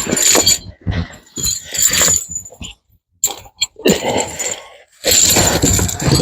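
Steel tire chains rattling and clinking in irregular bursts as they are handled and fastened onto a tractor tire, with a longer stretch of rattling near the end.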